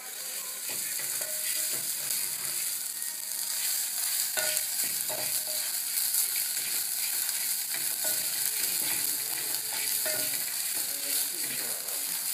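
Nsenene grasshoppers sizzling as they fry in a pan: a steady, even hiss.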